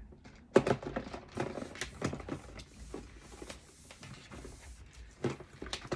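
Light knocks, clicks and scratchy rubbing from a toy vehicle being washed and handled against plastic containers, with a sharper knock about half a second in and another near the end.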